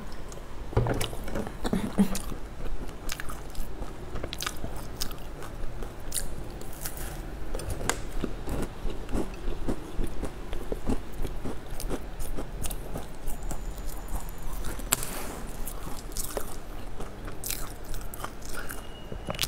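Close-up mouth sounds of a person biting into and chewing a crisp, cream-filled pastry, with many small crunches and crackles.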